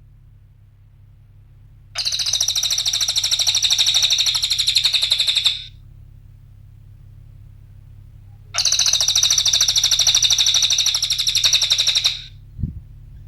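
Cililin bird singing: two long bursts of fast, high twittering notes, each about three and a half seconds, with a short pause between them. A faint steady low hum runs underneath.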